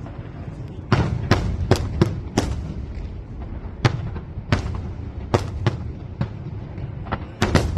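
Fireworks display: a string of sharp bangs, about a dozen in under seven seconds, coming in quick clusters with short gaps, over a constant low rumble.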